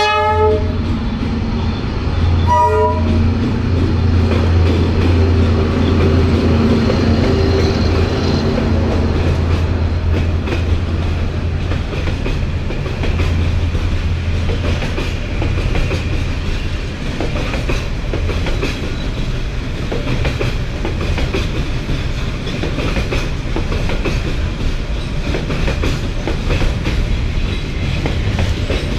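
A train passing: two short blasts of the locomotive horn in the first three seconds and a steady low engine drone from the diesel locomotive. From about halfway, the train cars roll by with fast clickety-clack from the wheels over rail joints.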